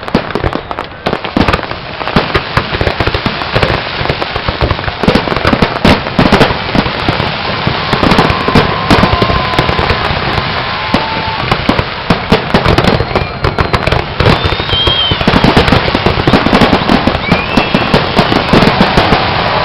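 Fireworks display: a dense, continuous barrage of bangs and crackling, getting louder and busier toward the end.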